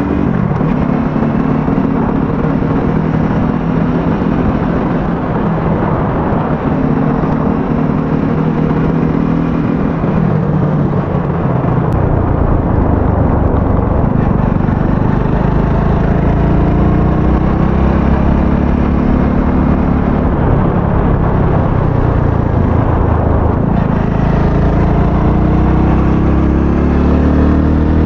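Aveta Ranger 110 motorcycle's small single-cylinder engine running on the road, its pitch rising and falling several times as the rider speeds up and eases off. Heard from a helmet-mounted camera, with a low rumble that grows louder about twelve seconds in.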